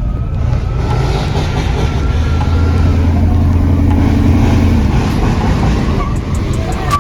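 A truck's engine running loud with a deep, steady drone that swells from about a second in and eases off after about five seconds, as if the truck passes close by.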